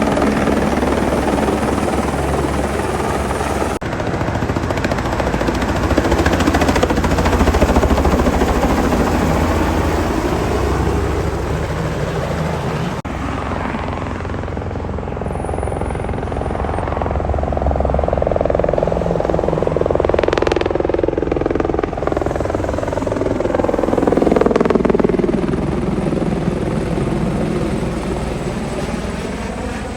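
Helicopter rotor and turbine running steadily. The sound swells twice, and over the second half a whine slides down in pitch.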